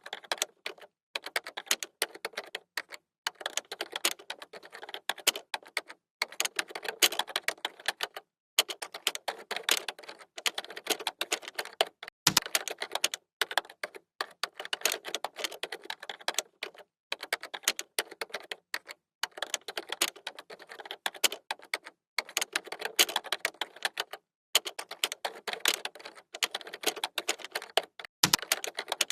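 Computer keyboard typing: rapid clicking of keys in runs of a few seconds, broken by brief pauses. A couple of heavier key strikes stand out.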